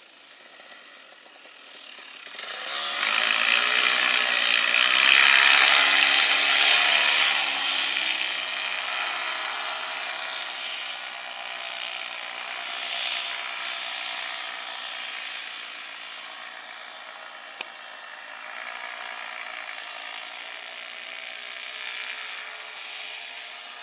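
A small engine running at high revs, its pitch wavering, loudest in the first few seconds and then settling to a steadier note.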